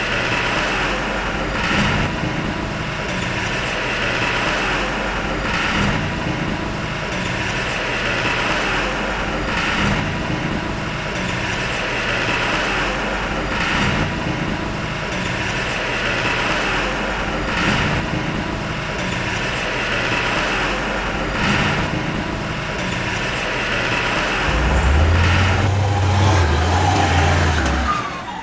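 Heavy diesel earthmoving machinery running steadily, with a faint regular clack about every four seconds. The engine grows louder over the last few seconds.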